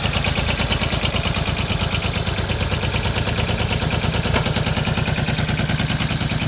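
Hinomoto N179 compact tractor's diesel engine running steadily, with an even, fast beat and a single small click about four seconds in.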